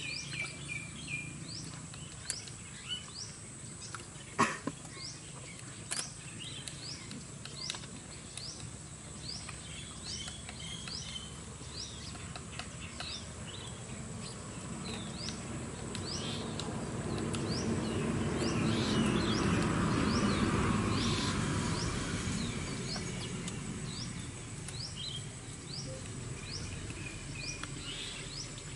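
A bird repeats a short, high, rising chirp a little more than once a second over outdoor ambience. A couple of sharp taps come about four and six seconds in. A broad rush of noise swells and fades in the middle.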